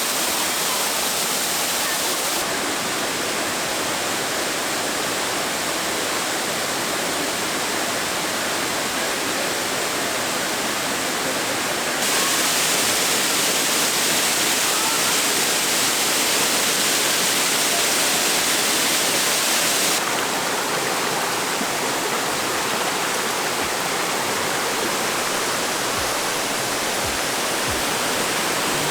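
Waterfall cascades rushing steadily. The water noise jumps louder and brighter about twelve seconds in and drops back about eight seconds later, as if moving from one fall to another.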